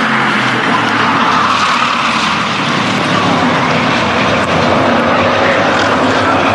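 Race trucks' engines running at speed around a short oval track, a loud, steady mass of engine noise with faint pitches sliding as trucks pass.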